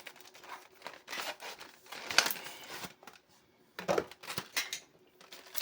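Plastic packaging crinkling and rustling as it is handled and pulled open, with irregular sharp clicks and crackles, the loudest about two seconds in and about four seconds in.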